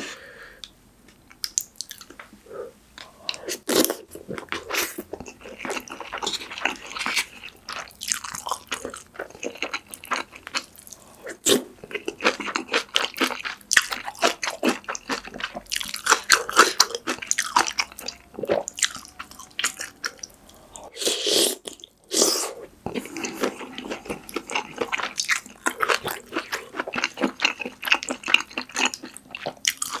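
Close-miked eating of pork kimchi stew with rice: wet chewing and biting with irregular crackly mouth clicks, and the spoon scooping and knocking in the pan. There is a louder stretch of mouth noise about two-thirds of the way through.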